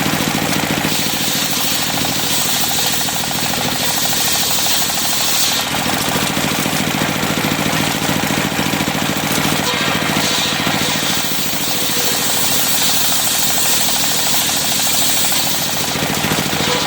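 Engine-driven circular sawmill running steadily with a rapid knocking beat, its blade ripping cempaka timber in two stretches, from about a second in to about five seconds, and again from about ten to sixteen seconds in, each cut adding a high hiss.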